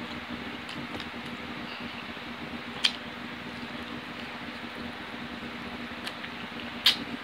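Person chewing fried chicken close to the microphone: soft, wet eating sounds over a steady hiss, with two sharp clicks about three and seven seconds in.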